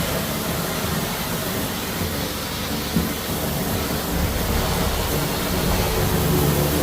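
Floor-cleaning machine running steadily on travertine tile, a constant mechanical hum with a hiss over it.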